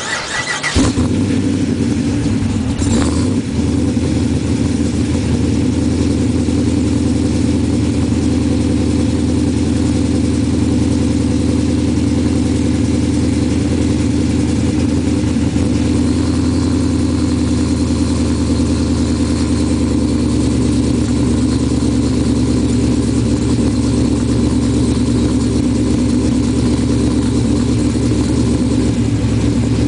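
Car engine starting up and settling into a steady idle, heard through its exhaust.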